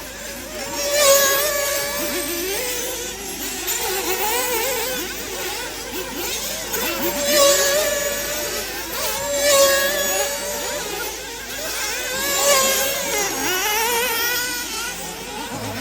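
Several 1/8-scale nitro off-road buggies' small two-stroke glow engines buzzing and revving up and down around the track, several pitches overlapping. It swells louder about four times as cars pass near.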